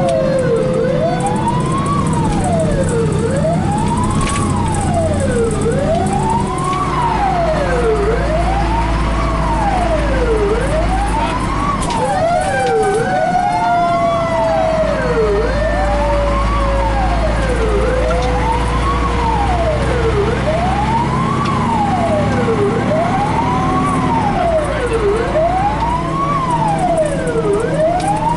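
Fire engine's siren wailing up and down about every two and a half seconds, with slower falling siren tones laid over it, above the low rumble of the truck's engine, heard from inside the cab of a Pierce rescue engine running to a call.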